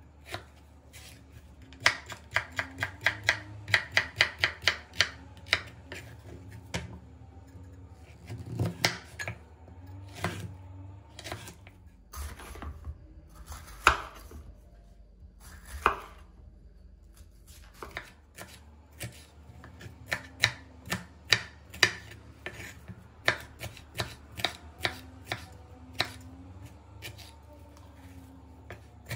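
Knife chopping vegetables on a cutting board, in quick runs of sharp knocks with pauses between them.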